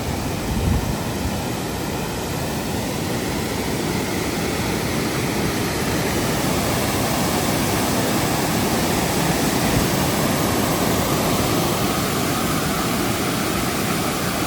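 Waterfall: water cascading over rocks, a steady rushing hiss that grows slightly louder as it goes on.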